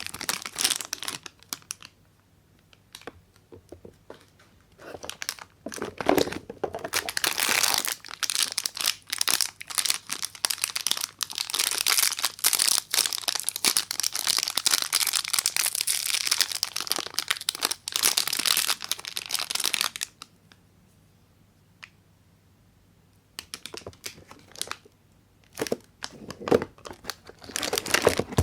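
A soap bar's wrapper crinkling and tearing as it is unwrapped, in bursts with quiet pauses. A long dense stretch of rustling fills the middle, and a few short rustles and sharp clicks come near the end.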